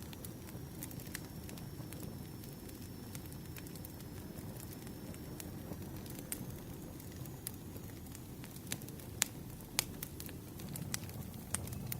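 Wood campfire burning: a steady low rumble of flames with scattered sharp crackles and pops, two of them louder about nine and ten seconds in.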